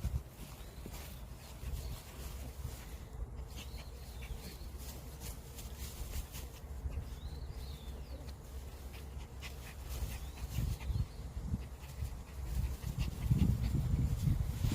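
Small Maltese dog rolling and scuffling in grass, a run of small rustling clicks with dog sounds. A low wind rumble on the microphone grows heavier near the end.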